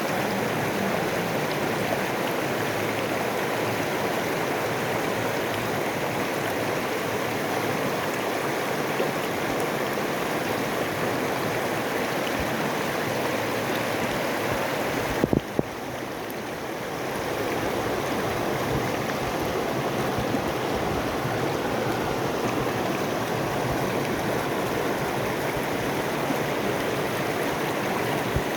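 River water flowing and rushing steadily. About halfway through there is a sharp click, and the sound drops briefly before returning to its steady level.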